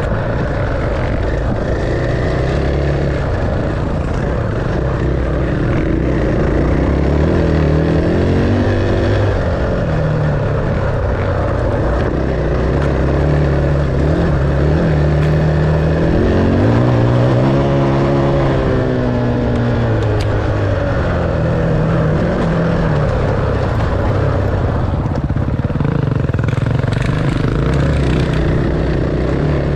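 Enduro dirt bike engine running under way, its pitch rising and falling again and again as the throttle opens and closes.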